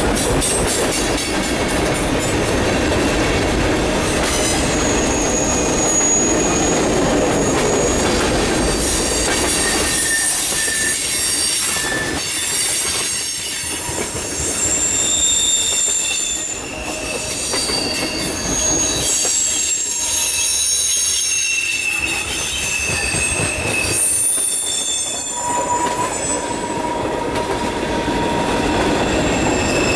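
Freight cars of a mixed freight train rolling past close by: the steady rumble and rattle of steel wheels on rail, with high-pitched wheel squeals that come and go.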